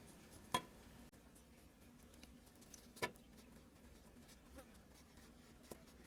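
Quiet room tone broken by two sharp clicks of small hard objects, about two and a half seconds apart, and a fainter click near the end.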